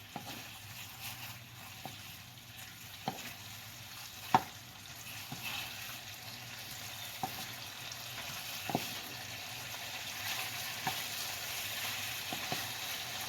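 Chicken thighs sizzling as they brown in a wok in their own fat, without added oil. A few sharp clicks come through, the loudest about four seconds in, and the sizzle grows louder toward the end.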